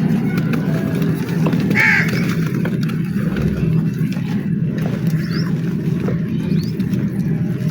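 Dry black mud crumbling and crunching in a steady, dense crackle. A short bird call comes through about two seconds in.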